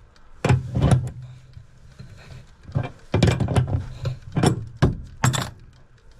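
Hand tools knocking and clanking against rigid metal sink supply lines and valves: about seven sharp knocks in uneven groups.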